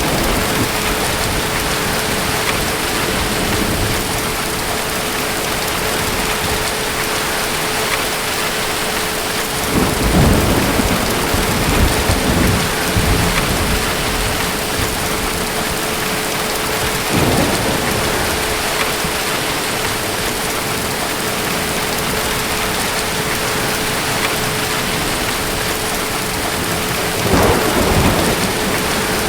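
Steady heavy rain with distant thunder rumbling three times: a long roll about ten seconds in, a short one around seventeen seconds, and another near the end.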